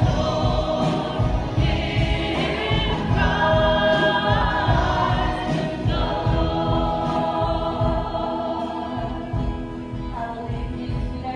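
Worship music with a choir singing over instruments; it grows slightly quieter toward the end.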